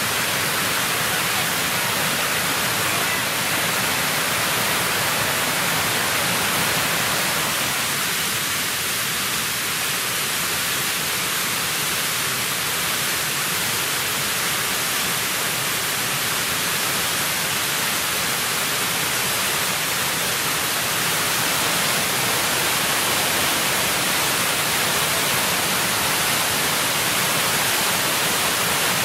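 Water rushing steadily down a river's cascades, an even hiss with no let-up.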